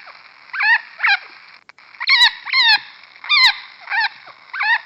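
A bird calling over and over: short, pitched calls that bend in pitch, about two a second, some coming in quick pairs.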